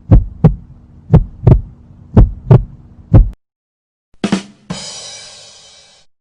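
Heartbeat sound effect: four double thumps (lub-dub) about a second apart over a steady low hum, stopping after about three seconds. After a short gap comes a brief sharp knock, then a bright ringing hit that fades away over about a second and a half.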